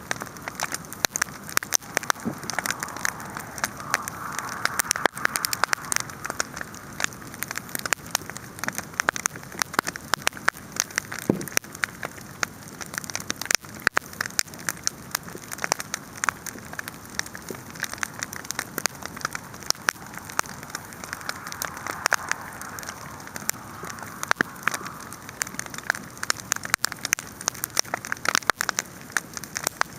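A large wood fire burning, with a dense, constant crackle of sharp pops over a steady hiss of flames that swells a little twice.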